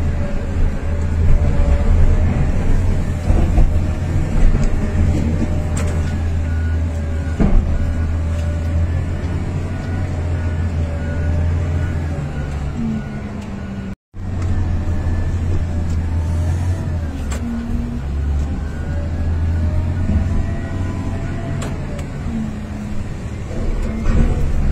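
Excavator's diesel engine running steadily under load, with a wavering whine above the low drone.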